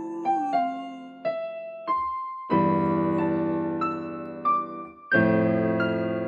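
Piano or electric keyboard playing slowly: a few single notes picked out one after another, then two full chords about two and a half seconds apart, each left to ring and fade.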